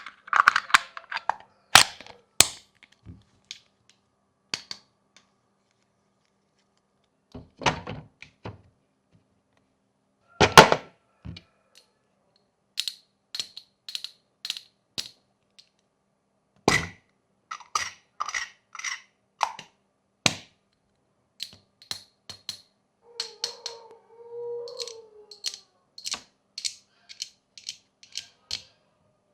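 Sharp plastic clicks and snaps of fidget toys being pressed and flicked by hand, in irregular clusters with pauses, at times about two clicks a second. A short squeak comes about two-thirds of the way in.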